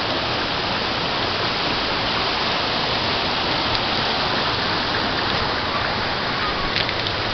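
Waterfall's falling water rushing steadily, an even unbroken noise.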